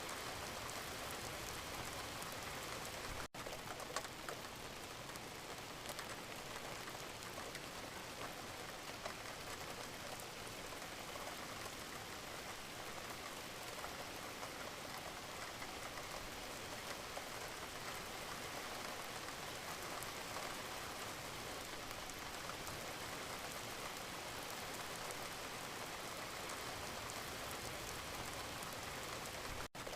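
Wood fire crackling in a fireplace: a steady hiss with scattered small pops. The sound drops out for an instant twice, about three seconds in and near the end.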